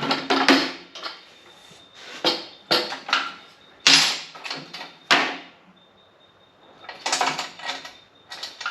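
Metal parts of a motorcycle exhaust and its bolts being handled and fitted: a string of short, irregular metal clinks and knocks, with a quieter stretch around six seconds in.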